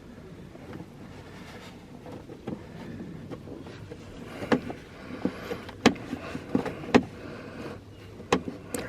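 Handling noise and several sharp clicks and knocks, starting about four and a half seconds in, as gauges are turned and seated in an A-pillar gauge pod.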